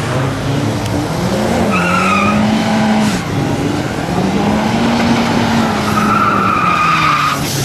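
JB4-tuned BMW 135i's N54 twin-turbo inline-six revving on the drag-strip start line: the engine note rises about half a second in, is held at raised revs, dips near the middle and climbs and holds again. A high-pitched squeal comes in twice, about two seconds in and again near the end.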